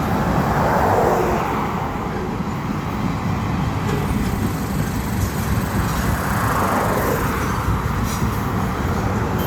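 Freight cars of a manifest train rolling past: a steady heavy rumble that swells twice, once about a second in and again near the end.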